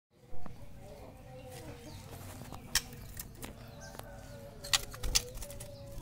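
Birds calling, with low wavering calls throughout and a few sharp, very high clicks in the second half. There is a loud thump right at the start.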